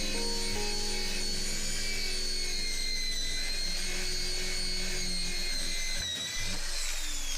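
A small electric power tool's motor running at steady speed with a high whine, then winding down in falling pitch near the end. Faint background music sits under it.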